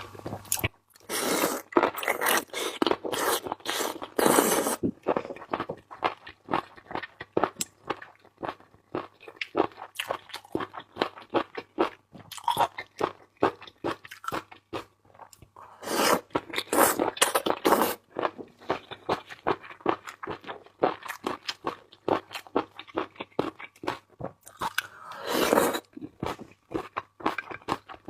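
A person biting and chewing crunchy seafood: a dense run of wet crunches, heavier about a second in, around sixteen seconds in, and again near the end.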